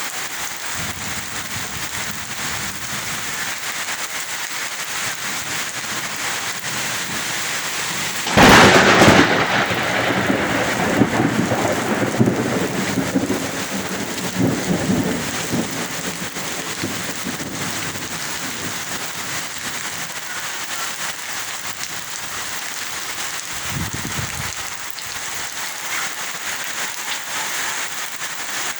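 Heavy rain falling steadily. About eight seconds in, a sudden loud crack of thunder rolls off into a rumble lasting several seconds, and a shorter low rumble of thunder comes later.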